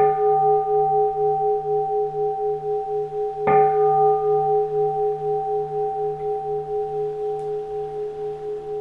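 Keisu, a Japanese bowl-shaped temple bell, struck twice about three and a half seconds apart, each stroke ringing on as a long, pulsing hum that slowly fades.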